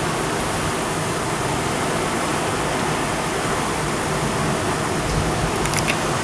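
Heavy thunderstorm downpour: a dense, steady roar of rain, with a few sharp ticks of drops striking close by near the end.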